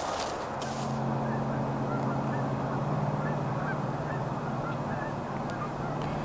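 Canada geese honking, many short calls overlapping from a flock, over a steady low hum.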